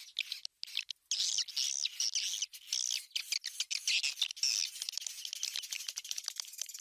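An edited swiftlet lure-call track: dense, high twittering chirps of swiftlets, giving way about halfway through to a fast run of short ticking clicks.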